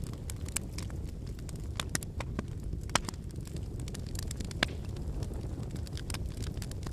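Wood campfire burning: a steady low rush of flame with irregular sharp crackles and pops from the burning firewood, the loudest pops about three seconds in and again a little past four and a half seconds.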